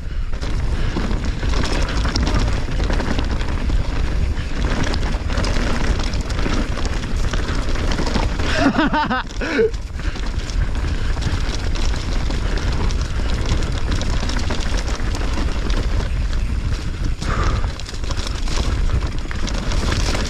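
Mountain bike descending a rough dirt trail, heard from a rider-mounted action camera: steady wind rush on the microphone over tyre noise on dirt and roots and the bike's rattling. A brief higher-pitched sound comes about nine seconds in.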